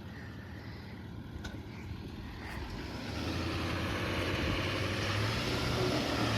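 Heavy-duty pickup truck engine running and getting steadily louder, with a wash of road or tyre noise. Its steady low engine note comes through clearly from about halfway in.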